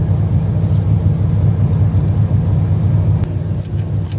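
Truck engine idling steadily with a low, even rumble, with a few light clicks and taps over it.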